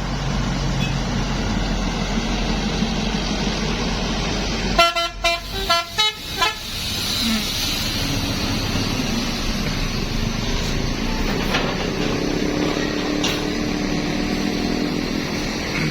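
Steady road traffic and engine noise. About five seconds in, a bus horn sounds a quick run of about five short pitched toots.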